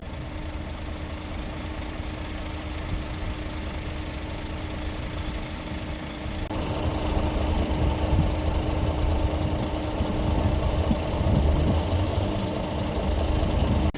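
An engine running steadily with a low rumble and a steady hum, louder after a sudden step about six and a half seconds in.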